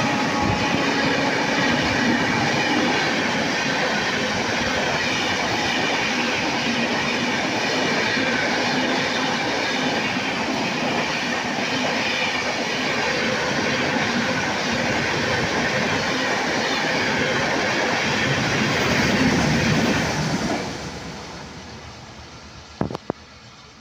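Superfast express train running through a station at full speed: a loud rush of wheels and coaches over the rails with a clickety-clack, fading away about 20 seconds in as the train clears. Two sharp clicks come near the end.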